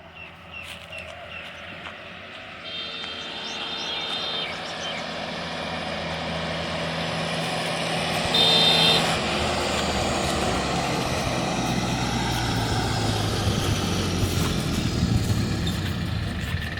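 A tractor engine running and growing steadily louder as it draws closer. A vehicle horn sounds twice: a held honk a few seconds in and a shorter, louder one about halfway through.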